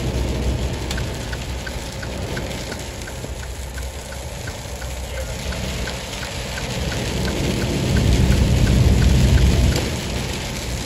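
Heavy rain on a vehicle's windshield and wet road noise heard from inside the cab at highway speed, with a low rumble that swells about eight seconds in and a faint ticking about four times a second.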